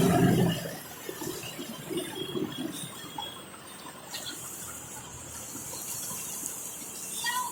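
A passing vehicle fades out within the first second, leaving a faint, steady hiss of rain and wet-street noise.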